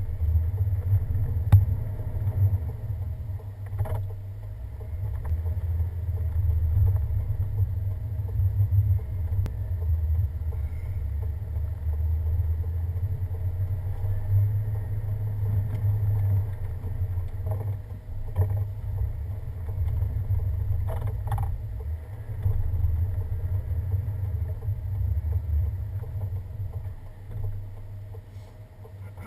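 Pickup truck driving over a snow-covered winter road: a steady low rumble of engine and road noise, with a few faint knocks and clicks.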